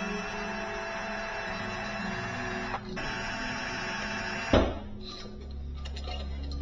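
Power screwdriver running out the motor clamp screws on a vacuum pump: a steady motor whine in two runs with a short break between them. The whine stops at a sharp knock about four and a half seconds in, followed by a few light clicks.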